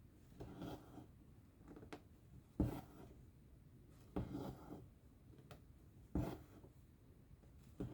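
Cross-stitch needle and thread pulled through fabric: four short rustling pulls, one every one and a half to two seconds, with a couple of faint needle clicks between them.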